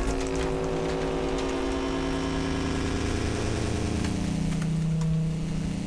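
Audi A6 engine idling steadily after its oil change.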